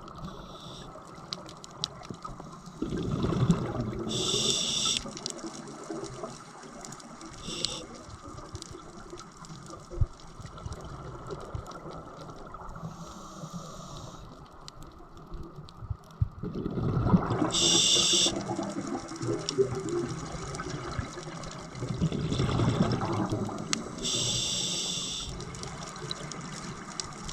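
Underwater sound of a scuba diver breathing through a regulator: a few rumbling bursts of exhaled bubbles, alternating with short high hisses of inhalation, over a steady underwater noise.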